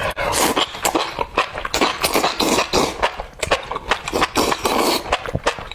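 Close-miked eating: a rapid, irregular run of wet chewing and slurping sounds.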